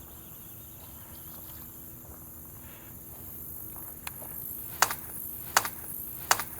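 Steady high chirring of insects, with three sharp clicks a little under a second apart near the end.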